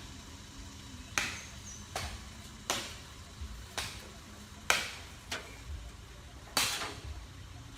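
A series of sharp knocks or taps, about one a second at an uneven pace, over a faint low background rumble.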